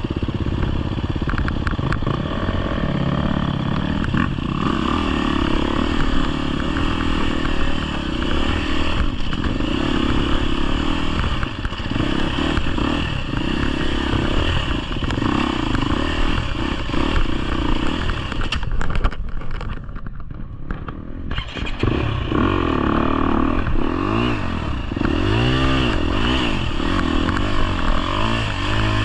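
A 250 cc four-stroke single-cylinder dirt bike engine (GasGas EX250F) is ridden off-road, revving up and down over and over with the throttle. The bike clatters and rattles over rough ground. About two-thirds of the way through, the engine falls back for a couple of seconds and then picks up again.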